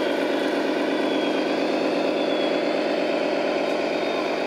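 Radio-controlled model truck running: a steady engine-like hum with a faint high whine that dips and rises slightly.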